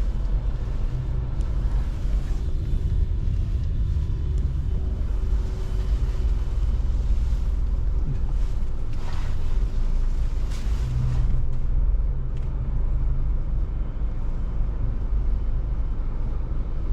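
A car running: a steady low rumble of engine and road noise.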